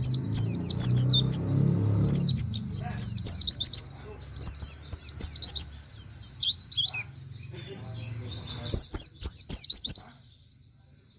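White-eye (pleci) singing in rapid bursts of short, high, falling whistled notes, the fast 'shooting' delivery with canary-like 'wit wit' notes, five runs with short pauses between. A few faint knocks come near the end.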